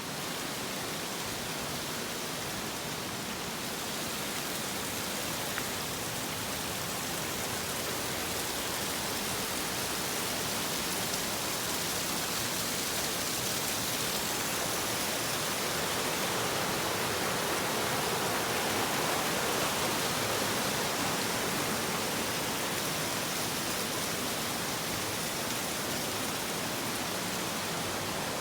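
Steady rush of a waterfall, an even roar of falling water that swells slightly louder in the second half.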